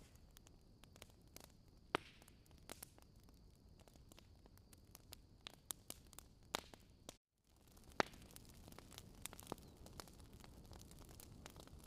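Wood fire crackling softly: irregular sharp pops and snaps over a faint low hiss, with the sound cutting out for a moment about seven seconds in.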